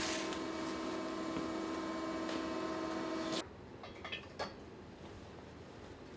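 Steady electric machine hum, several fixed tones together, that cuts off suddenly about three and a half seconds in, followed by a few light clicks.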